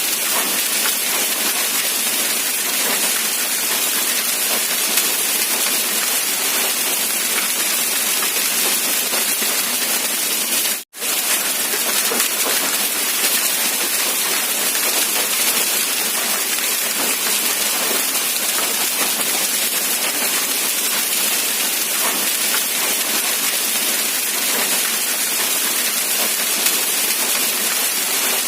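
Heavy rain falling steadily, an even dense hiss without single drops standing out. It cuts out for an instant about eleven seconds in, then carries on unchanged.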